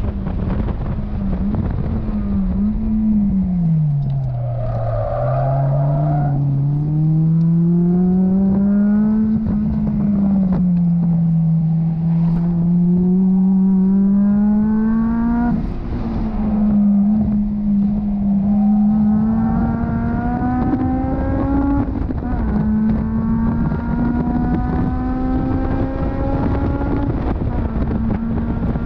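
Honda S2000's four-cylinder engine on a race track, heard from the open cockpit over heavy wind noise. Its pitch dips low about four seconds in, then climbs in long pulls, dropping a little at each gear change about ten, fifteen and twenty-two seconds in.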